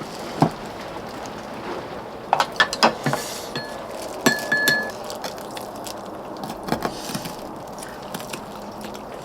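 Spoons and chopsticks clinking against bowls while eating, with a cluster of sharp clinks about two to five seconds in, a couple of them ringing briefly, over a steady low hiss.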